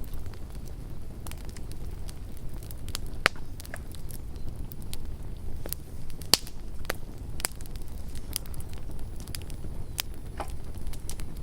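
Campfire crackling: burning wood giving off irregular sharp pops and snaps, the loudest about three and about six seconds in, over a steady low rumble.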